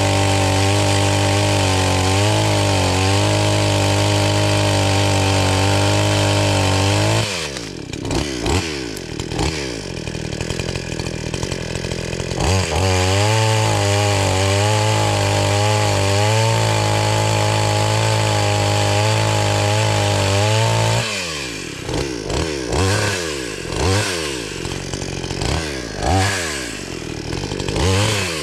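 Gasoline chainsaw cutting firewood. It holds a steady high speed for about seven seconds, then its pitch drops and it revs up and down. It holds a second steady stretch from about 12 to 21 seconds, then falls back to repeated revving up and down.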